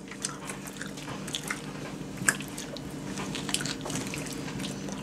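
Wet chewing and lip-smacking of people eating sticky barbecue ribs with their fingers: small scattered clicks and squishes over a faint steady hum.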